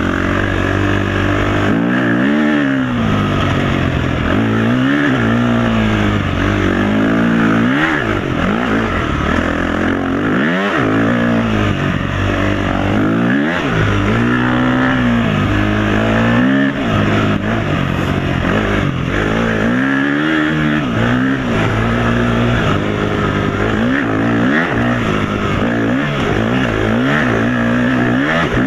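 Dirt bike engine revving up and down over and over as it is ridden off-road, the pitch rising and dropping every second or two with each throttle opening and gear change.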